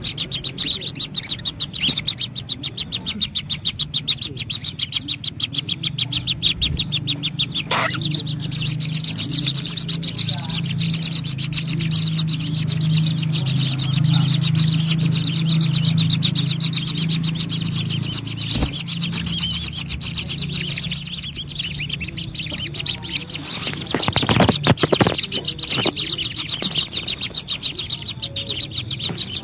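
Birds at a nest chirping in a rapid, continuous high-pitched stream. A low hum sits underneath for the middle part, and a few short clicks come through.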